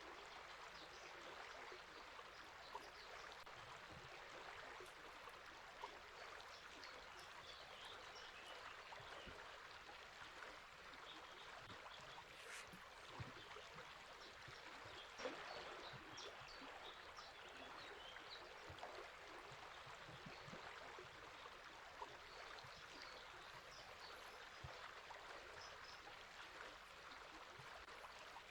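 Faint, steady rush of a flowing river, with scattered small bird chirps over it.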